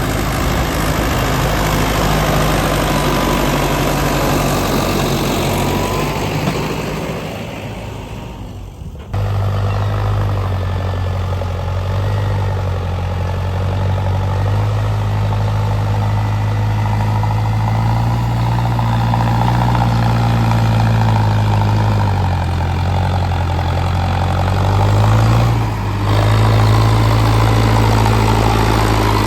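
Tractor diesel engine running steadily with a deep hum. It fades a little, then comes back loud abruptly about a third of the way in. Its pitch wavers up and down later on, with a brief dip shortly before the end.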